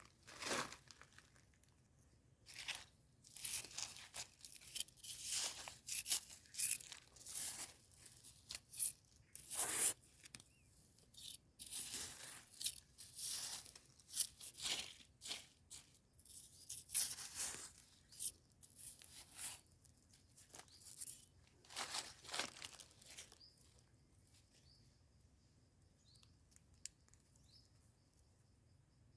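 Hands scraping and tearing through soil and leaf litter to pull up termite mushrooms, in irregular rustling bursts that stop about 23 seconds in. Faint high chirps follow.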